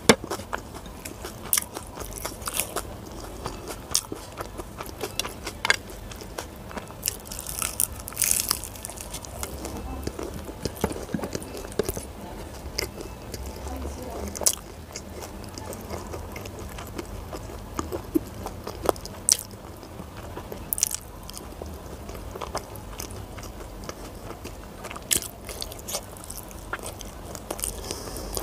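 Close-miked eating sounds: a person chewing with wet mouth smacks and many irregular sharp clicks while eating chicken curry and rice by hand.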